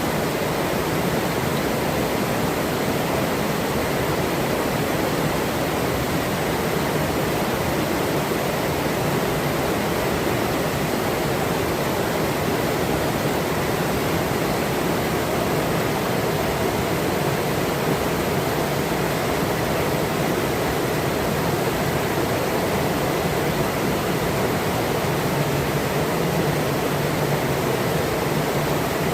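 Forest river running, a steady even rush of flowing water with no change in level.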